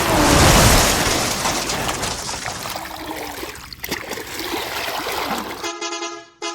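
A loud rush of splashing water that slowly fades into a trickling, gurgling wash. Near the end it cuts off and a tooting horn tune starts.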